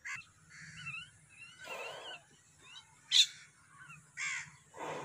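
Outdoor birds calling: many short chirps, with a few harsher, longer calls, and one brief loud sharp sound about three seconds in.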